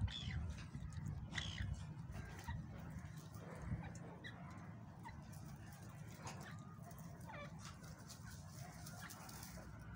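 Scattered short bird calls and chirps, faint, over a steady low rumble.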